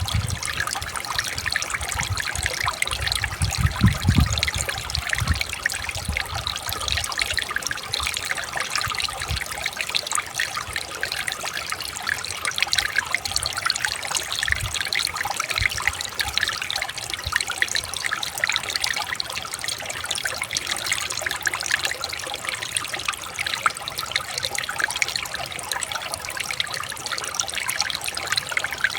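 Shallow river water trickling and babbling over stones, a steady splashing with many small quick spatters. A few low rumbles come through around four to five seconds in and again briefly near the middle.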